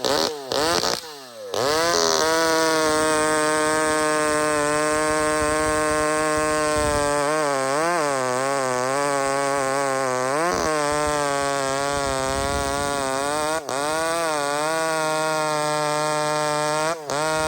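Chainsaw engine running steadily at high revs, its pitch dipping briefly and recovering about four times.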